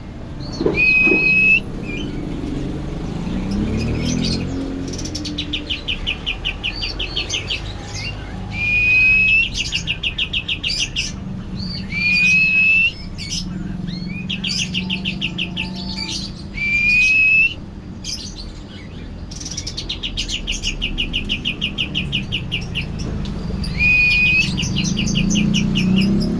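A songbird singing the same phrase again and again: a fast chattering trill followed by a loud, clear, upward-sliding whistle, repeating about every four seconds. This is the kind of song kept as masteran, a tutor song for caged songbirds.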